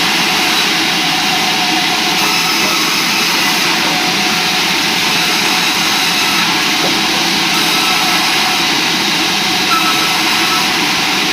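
Sawmill saw running steadily with a loud, even machine noise while sawing logs into square timber.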